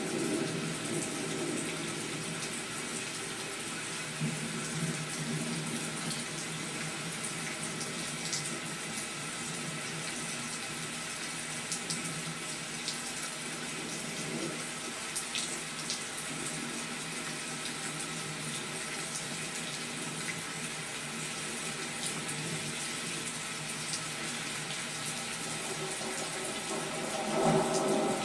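Steady rain falling, with a rumble of thunder building near the end.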